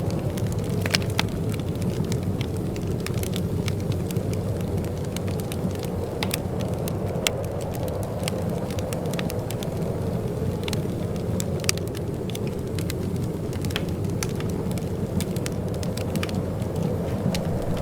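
Wood fire crackling in a fireplace: many small, irregular pops and snaps over a steady low rush.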